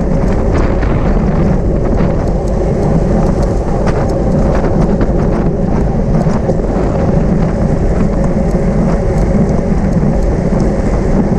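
Steady wind buffeting on the microphone of a camera riding along in a road bike race, over the rumble of tyres on the road, with scattered small clicks and rattles.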